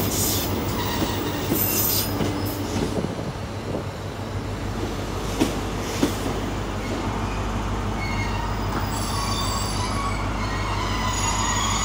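Diesel trains at a station platform: a steady low diesel engine drone, with two short clicks around the middle. From about two-thirds of the way in, high-pitched steel wheel squeal rises over it as a train rolls into the platform.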